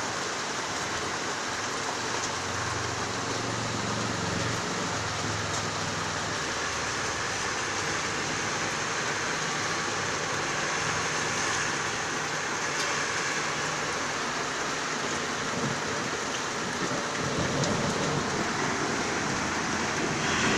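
Heavy rain falling steadily in a thunderstorm, with low thunder rumbling a couple of seconds in and building again near the end.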